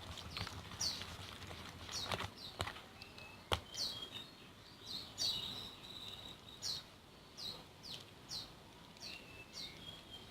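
A bird chirping over and over: short, high chirps that sweep downward, about one a second. A few sharp clicks sound in the first few seconds.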